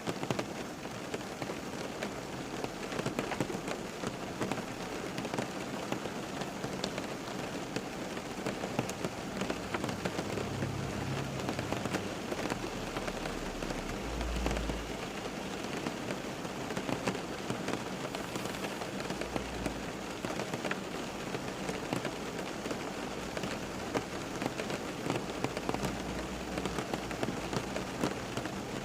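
Steady rain falling on a surface, a dense patter of drops. A few faint low rumbles come partway through.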